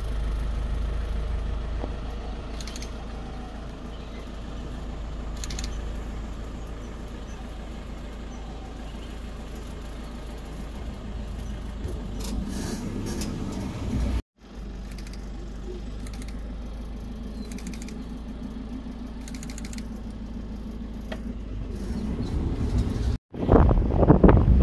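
Safari vehicle's engine running with a steady low rumble and faint rattles, cutting out twice for an instant. Near the end the rumble grows much louder, with wind buffeting the microphone.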